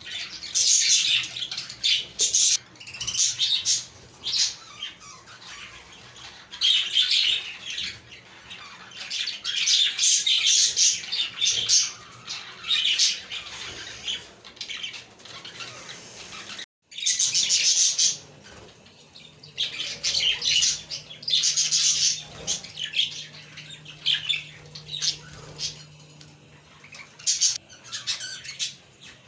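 A flock of budgerigars chirping and warbling in repeated bursts of high, busy chatter, with a brief drop to silence just past halfway. A faint steady low hum runs underneath in the second half.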